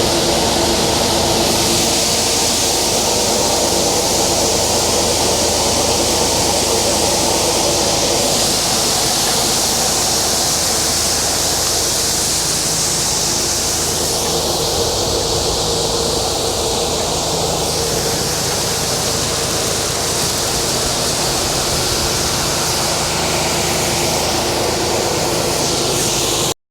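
Combine's diesel engine and unloading auger running steadily as soybeans pour into a dump truck's bed, a constant rushing hiss over the engine drone. The sound cuts off abruptly at the very end.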